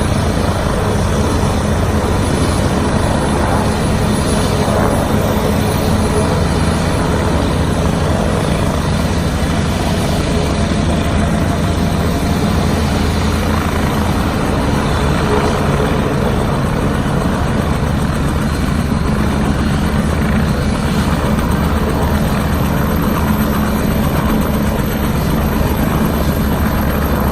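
UH-1 Huey helicopter running steadily, its rotor and turbine giving a loud, even, continuous sound.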